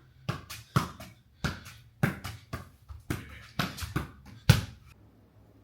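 A run of a dozen or so sharp slapping knocks, two to three a second, the last and loudest about four and a half seconds in, then stopping.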